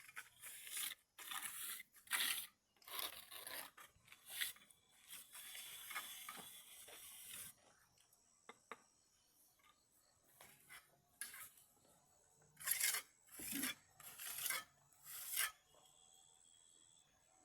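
A hand tool rasping on wood in back-and-forth strokes, as in hand sawing or shaping timber. About half a dozen quick strokes and one longer stroke are followed by a pause of several seconds, then four more strokes.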